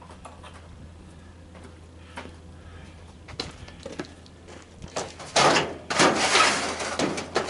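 A few light clicks and knocks, then from about five seconds in loud, rough scraping and rubbing as tanning bed parts are handled and pulled apart.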